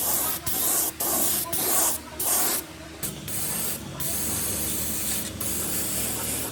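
Short bursts of spraying hiss, five in a row about two a second, then a steadier, quieter hiss over a low hum.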